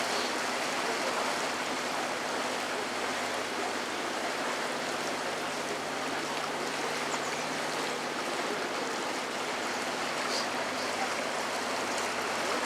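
Water rushing steadily along the hull of a moving canal tour boat, with a faint, steady low hum underneath.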